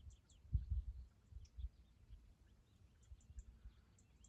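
Quiet pause with faint bird chirps in the background and a few soft low thumps, the strongest about half a second in.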